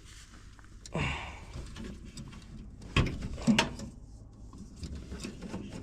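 Handling noises inside a furnace cabinet as the pressure-switch tubing is moved: a short rustle about a second in, then two sharp clicks or knocks about half a second apart.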